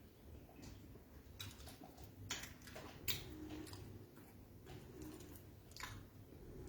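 Chewing and mouth sounds while eating beans with fried plantain, with a scattering of short, sharp clicks and smacks.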